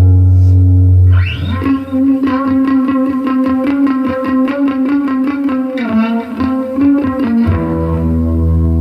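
Distorted electric guitar played through an Atomic AmpliFire modelling pedal into cheap computer speakers: a held low note, a quick rising sweep about a second in, then a fast run of picked notes before settling on another held low note near the end.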